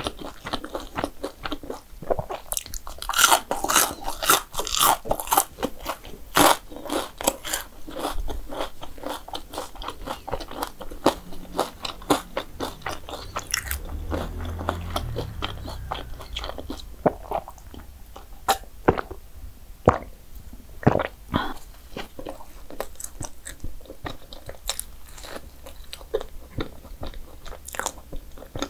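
A person biting and chewing crunchy dessert food close to the microphone: dense crisp crunches in the first several seconds, then sparser, scattered crunches with a brief low rumble in between.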